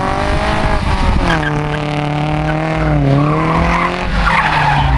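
Ford Capri drag car doing a burnout to heat its tyres. The engine is held at high revs and the rear tyres spin and squeal. The revs dip briefly about three seconds in, then recover.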